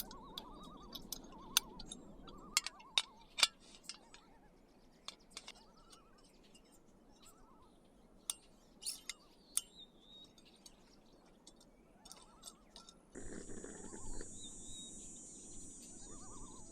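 Clicks and knocks of a camp stove and pan being handled. About thirteen seconds in, a gas camp stove lights and burns with a steady hiss.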